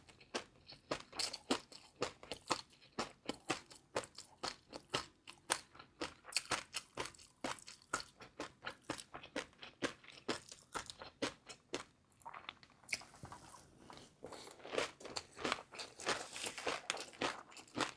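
Close-miked chewing of crunchy food: a steady run of crisp crunches, several a second, with mouth sounds between bites.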